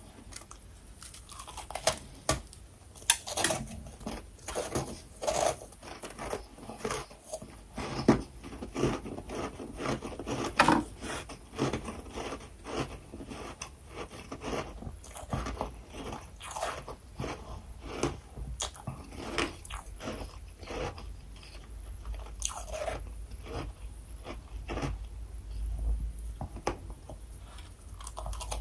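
A person biting and chewing freezer frost close to the microphone: a steady run of irregular, crisp crunches, several a second, with a few louder bites partway through.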